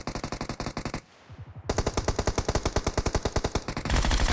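Automatic gunfire in a shooter video game, about ten rounds a second. A burst of about a second comes first, then a brief pause, then sustained fire that grows louder near the end.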